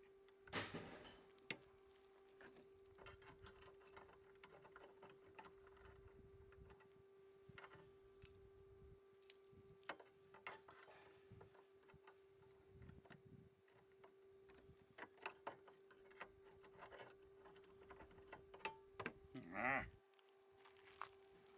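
Faint, scattered clicks and light taps over a steady low hum, with a brief wavering pitched sound near the end.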